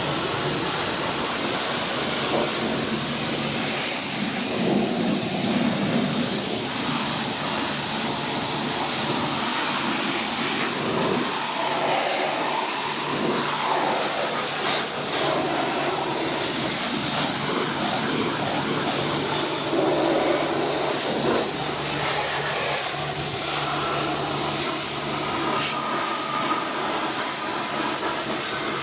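Pressure washer spraying water over an engine bay: a steady hissing spray over a low, constant hum, its tone shifting as the jet moves across surfaces.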